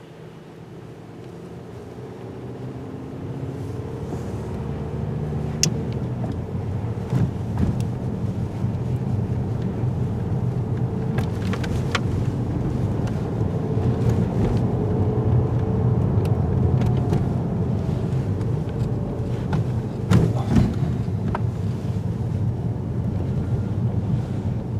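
Steady low engine drone that swells over the first few seconds and then holds, with scattered clicks and knocks over it.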